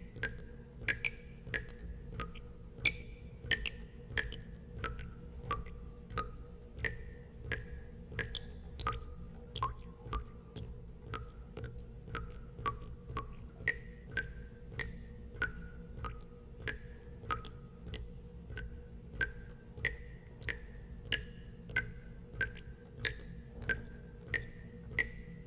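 Water drops falling one after another into water, about two a second. Each is a sharp plink with a brief ringing tone, its pitch changing from drop to drop, over a steady low hum.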